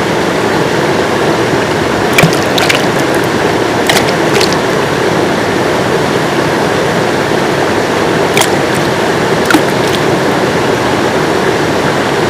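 River water rushing steadily over stones, with a few brief sharp ticks scattered through it.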